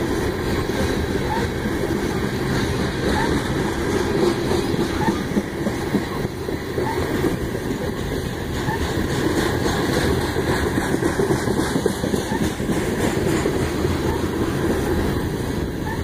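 Covered hopper cars of a freight train rolling past close by, a steady rumble of steel wheels on the rails.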